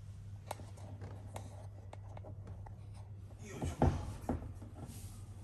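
Hand work on washing-machine parts with tools: light scattered clicks and scraping, then two sharper knocks a little under four seconds in, over a steady low hum.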